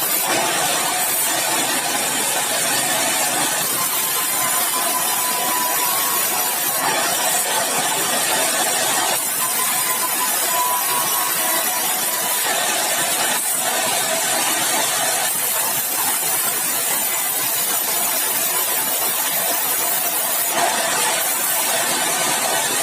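Sawmill saw cutting meranti batu timber: a steady, even hiss with no breaks.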